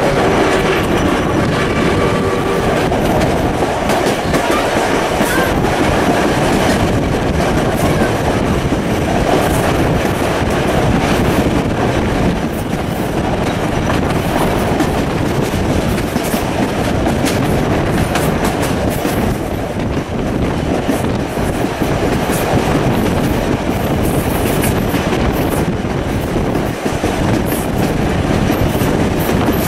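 Steam-hauled passenger train running, heard from an open carriage window: a steady rumble of wheels on the rails with a clickety-clack of rail joints and wind noise. A pitched tone sounds briefly at the start and fades out after about three seconds.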